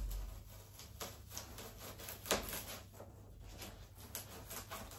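Knife cutting through a styrofoam sheet: irregular scratching and creaking strokes with scattered clicks, one sharp click a little past two seconds in.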